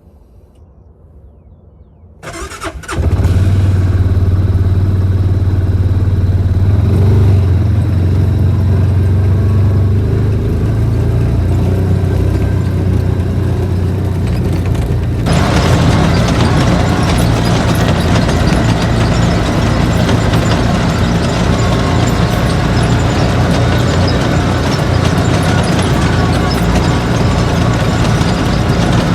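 A vehicle engine starts about two seconds in, then runs steadily with a low drone. About halfway through, a louder rushing noise joins it.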